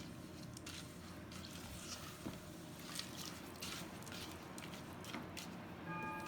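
A spoon stirring a thick mix of melted beef suet, oats, raisins, sunflower seeds and peanuts in a bowl, giving soft scrapes and scattered clicks. Music comes in just before the end.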